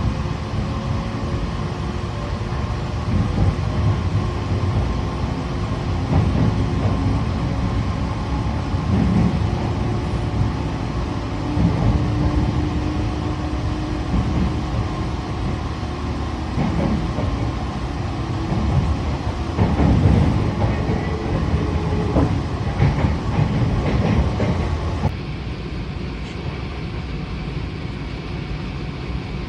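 A train running on the rails: a steady low rumble with scattered knocks and faint steady tones. About 25 seconds in it cuts abruptly to a quieter, duller rumble.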